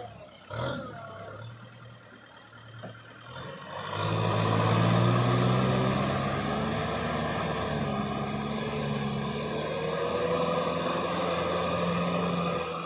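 Kubota diesel engine working under load while plowing mud. It comes in loud about four seconds in and then runs steadily with a slightly wavering pitch.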